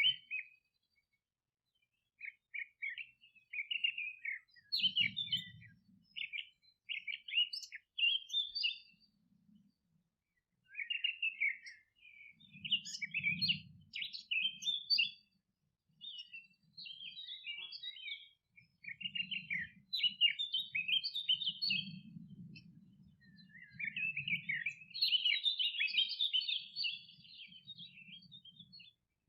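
Songbirds twittering in quick chirping phrases broken by short pauses, with a dense burst of song near the end. A faint low rumble comes and goes underneath.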